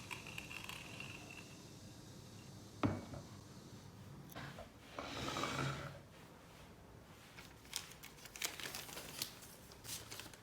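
Paper crinkling and rustling during pour-over preparation, with a sharp tap about three seconds in, a short rustle about five seconds in and a run of light clicks near the end.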